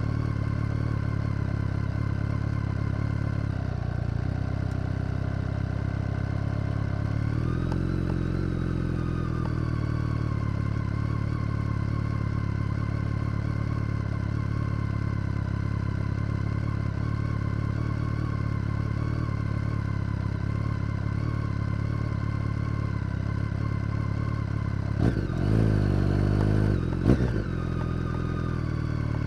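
BMW K1300R inline-four motorcycle engine with an Akrapovic exhaust, ticking over steadily. Its pitch rises and falls gently once, and near the end it is blipped louder a couple of times in quick succession before settling back to idle.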